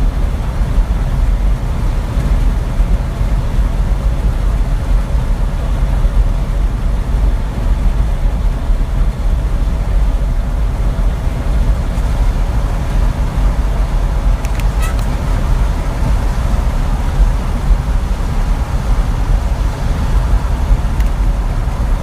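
Steady low rumble of engine and road noise from a truck driving along.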